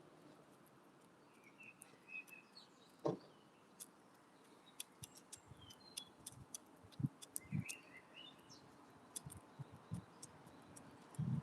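Wood pigeon pecking seed at a window bird feeder: faint, irregular sharp ticks of its beak on seed and feeder, with a few soft thumps, the loudest near the end. Small birds chirp briefly in the background twice.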